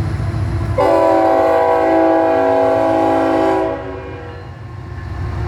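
Union Pacific freight locomotive's air horn sounding one long chord of several notes, starting about a second in and cutting off after about three seconds, over the low rumble of the passing freight train.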